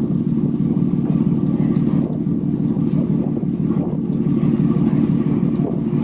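A sightseeing boat's engine running with a steady low drone, with wind buffeting the microphone.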